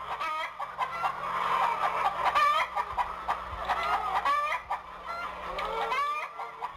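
Chicken clucking in quick, overlapping calls, over and over.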